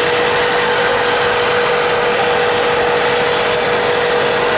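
Steady machine noise: a constant droning tone over an even hiss, unchanging throughout.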